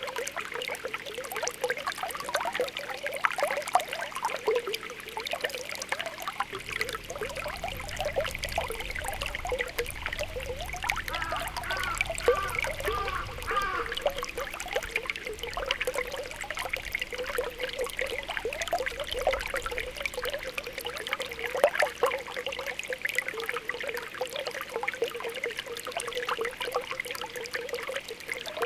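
Spring water welling up through the ground, bubbling and popping continuously with many small irregular blips.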